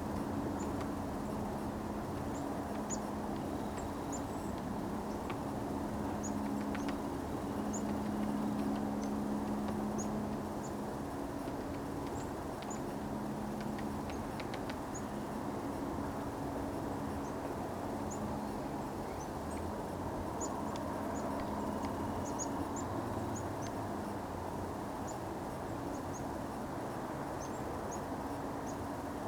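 Outdoor ambience: a steady low rumble with a hum, with faint, short high bird chirps coming every second or so.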